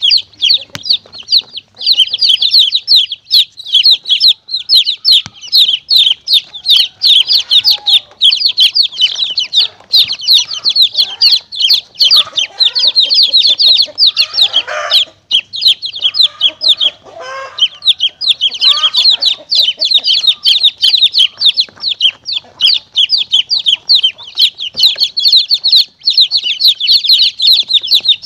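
Domestic chicks peeping continuously, a dense run of short, high, downward-sliding cheeps several a second. In the middle, lower clucking sounds join in for a few seconds.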